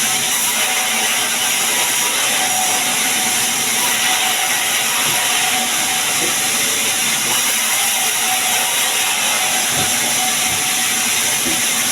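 Sawmill saw running steadily through sengon wood, a continuous loud hiss-like noise with a faint steady whine and no pause.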